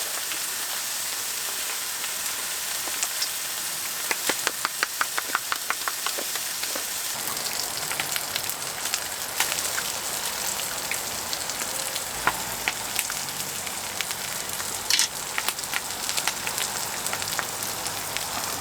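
Food frying in a pan with a steady sizzle. About four seconds in comes a quick run of sharp taps, around five a second for two seconds, and single clicks follow now and then.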